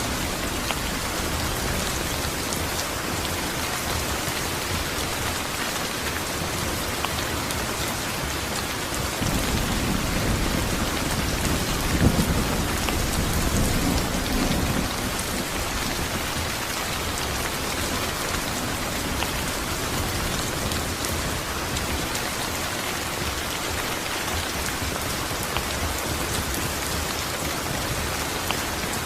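Steady rain falling, with a rumble of thunder that swells about a third of the way in, peaks with a sharp crack and rolls away a few seconds later.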